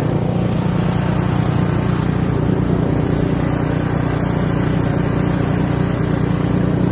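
Snowblower's small gas engine running steadily.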